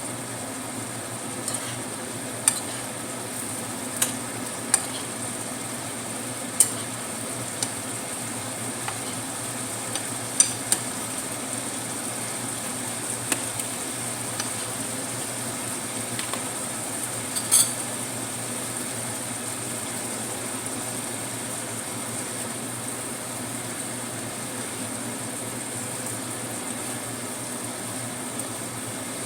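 Utensils clinking and knocking against pots and pans now and then, over a steady sizzling hiss from food cooking on the stove. The clinks come at irregular intervals through roughly the first two-thirds and then stop, leaving only the steady hiss.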